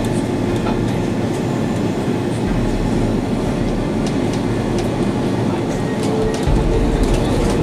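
Steady cabin noise inside an Airbus A330-300 in flight: the rumble of the engines and rushing airflow, growing slightly louder about six and a half seconds in.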